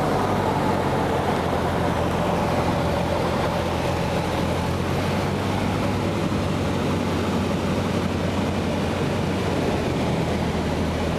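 Steady drone of a Cessna 172's piston engine and propeller in cruise, an even low hum under a broad rush of noise.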